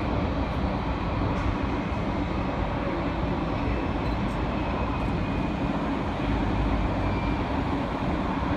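Steady rumble of a Boeing 737's jet engines, running evenly without rising or falling.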